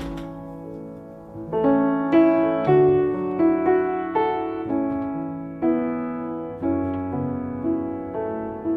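Gentle piano music: slow single notes and chords, each struck and left to ring and fade.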